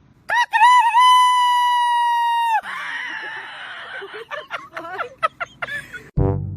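An animal's long, high-pitched cry that wavers at first, then holds one steady pitch for about two seconds and stops abruptly. Rustling and a few clicks follow, and brass music starts near the end.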